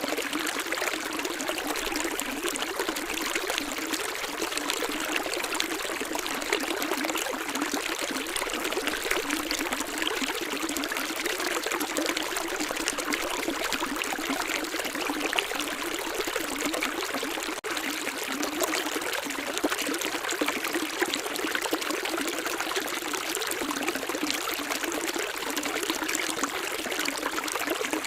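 Running water, a stream or small cascade, flowing and splashing steadily with no deep rumble.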